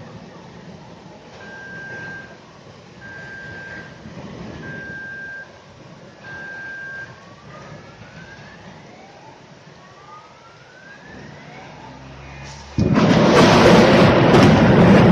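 Car alarm sounding through its cycle: four evenly spaced steady beeps, then a series of rising whoops. Near the end a sudden, very loud crash of thunder breaks in and keeps rumbling.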